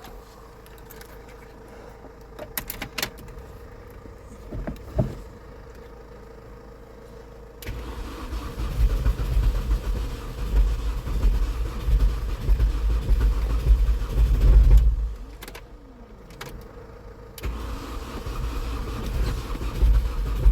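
Mini Cooper 1.6 engine running rough, just after the swap, in a way the builder says doesn't sound good. It is quiet at first, with a steady hum and a few clicks. About a third of the way in a heavy low rumble comes in, drops out for a couple of seconds with a falling tone, then picks up again near the end.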